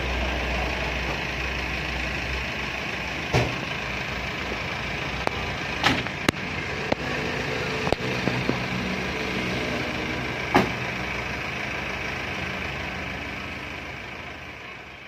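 Isuzu Panther 2.5's four-cylinder diesel engine idling steadily, freshly overhauled with new main and connecting-rod bearings, piston rings and rebored liners. A few sharp clicks sound over it, and it fades out near the end.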